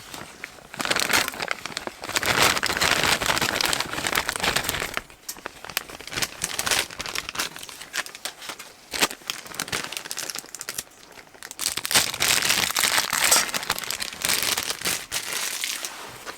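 Crinkling and rustling, as of something being handled close by, in irregular bursts of a few seconds with short quieter gaps between.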